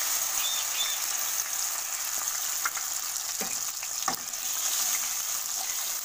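Ground poppy seed paste (posto) sizzling in hot mustard oil in a kadai: a steady frying hiss. A few brief taps come in about the middle.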